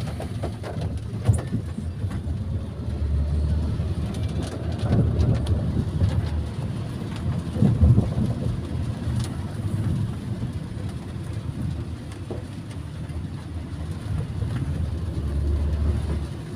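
Road noise inside a moving car in the rain: a steady low rumble of tyres and engine, with rain on the car.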